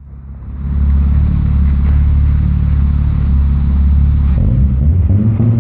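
BMW E34 525i's M50 2.5-litre 24-valve straight-six running through a Fox aftermarket rear muffler, a deep steady exhaust note at idle that fades in over the first second. About four seconds in, the note climbs and turns uneven as the engine begins to be revved.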